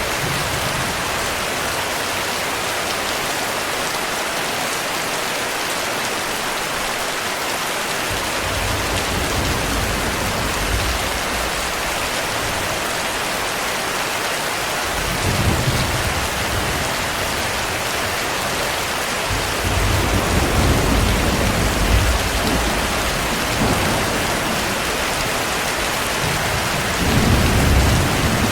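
Steady heavy rain falling. Deep rolling thunder rumbles under it about 8 seconds in, again near 15 seconds, for several seconds from about 20 seconds, and once more near the end.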